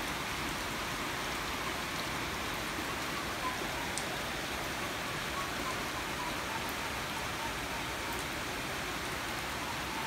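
Heavy rain falling steadily, an even hiss with a few faint sharp ticks of drops.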